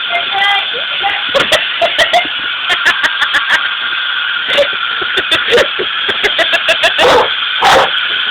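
Vacuum cleaner running with a steady hum while a dog barks repeatedly in quick, short barks, with two longer, louder barks about seven seconds in.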